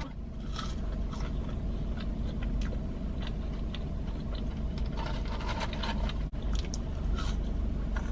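A person biting and chewing food, with many small crunches and mouth clicks.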